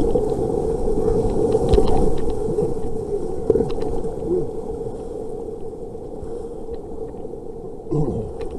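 Rushing creek rapids, a steady dense water noise that fades over the few seconds, with a few sharp knocks early on, likely from the canoe or paddle.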